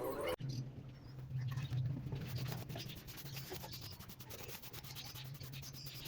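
Repeated scraping and rubbing over a steady low hum, starting abruptly about half a second in.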